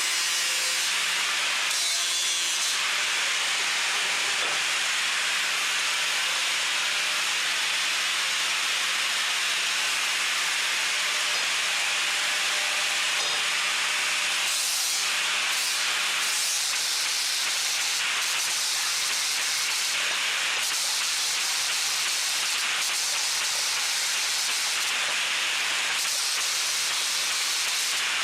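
Steady abrasive hiss of steel being linished, a chamfer ground onto plate and RSJ edges for weld prep, with a faint motor hum that stops about 16 seconds in.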